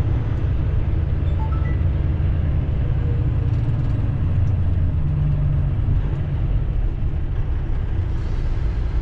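Tractor-trailer's diesel engine running with a steady low rumble, heard from inside the cab while crawling in slow traffic.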